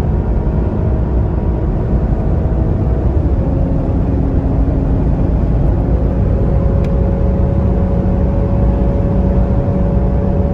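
Mercedes-AMG GLE 53's 3.0-litre inline-six engine pulling at speed over heavy road rumble. Its pitch steps down about three seconds in, like an upshift, then climbs slowly.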